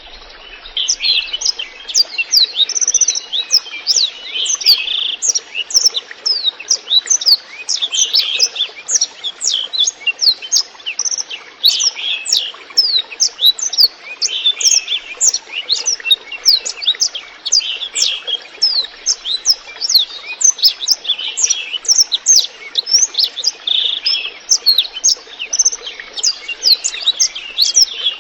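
A blackthroat (black-throated canary) singing continuously in a fast, chattering song of quick falling chirps and warbled runs, over a steady trickle of running water.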